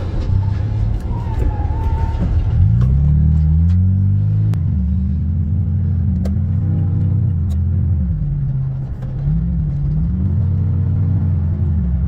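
Car engine revving again and again, its pitch swinging up and down in a series of swells from about two and a half seconds in, over a steady low rumble.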